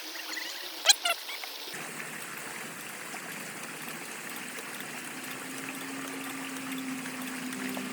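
Water trickling and running steadily, with two sharp metallic clinks about a second in. A low steady hum joins in around five seconds.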